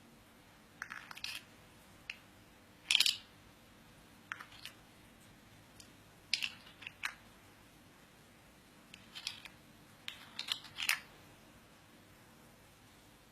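A series of short, irregular clicks and scratchy crunches, about a dozen of them spread unevenly over several seconds, the loudest about three seconds in and again near eleven seconds.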